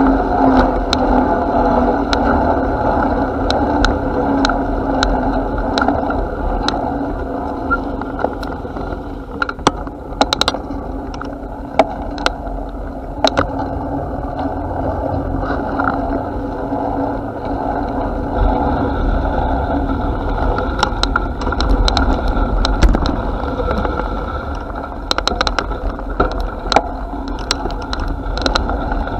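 Continuous noise of riding a bicycle: a steady low rumble with frequent short clicks and rattles from the bike.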